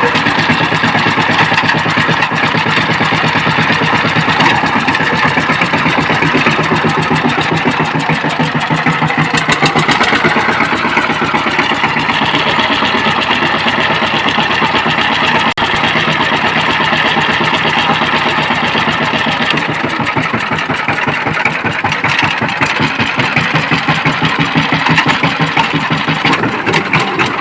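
Walk-behind power tiller engine running, a rapid, steady chugging that shifts pace slightly a couple of times.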